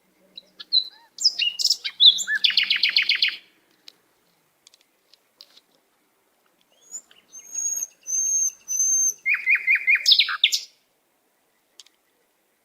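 A songbird singing two phrases, the first about a second in and the second about seven seconds in. Each phrase is a quick run of high, sliding notes ending in a fast trill. The second phrase opens with three repeated whistled notes.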